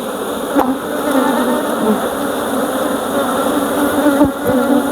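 Swarm of honeybees buzzing around an opened hive: a dense, wavering hum, as a comb frame is being worked out. A sharp click about half a second in and a dull knock near the end.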